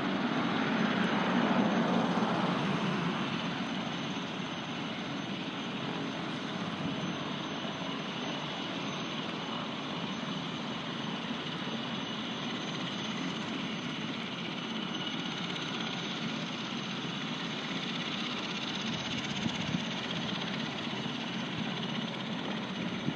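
Helicopter's rotor and turbine engine running, loudest in the first few seconds and then settling into a steady whirring hum.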